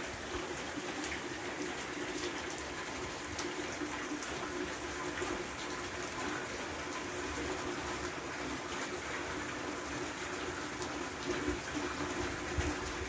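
Steady heavy rain falling on roof tiles and splashing into standing water, with scattered single drops ticking.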